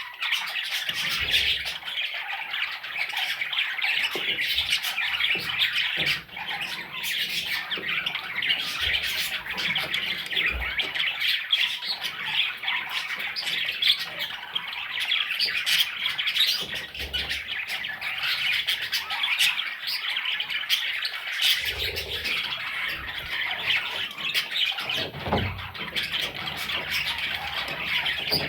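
Budgerigar chicks calling together in a dense, unbroken chorus of raspy squawks and chirps.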